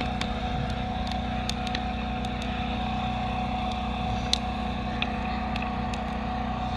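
Generator engine running steadily with a constant hum, with a few light clicks and taps scattered through.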